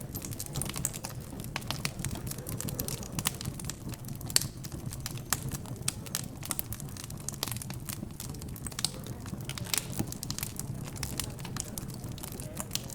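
Wood fire crackling in a fireplace: irregular small snaps and pops, with one louder pop about four seconds in, over a steady low hum.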